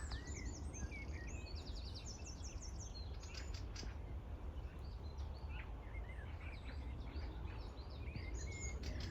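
Small birds chirping, with several quick trills in the first few seconds and scattered short chirps after, over a low steady rumble.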